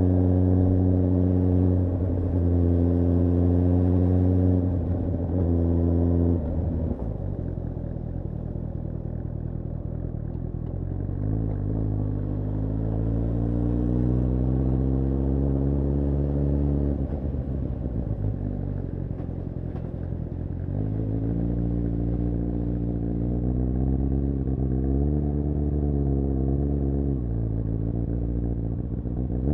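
Suzuki GSR750's inline-four engine, heard from the bike. It runs at a steady pitch with a few brief breaks over the first six seconds, then drops back quieter, then rises in pitch under acceleration, breaks off, and rises again.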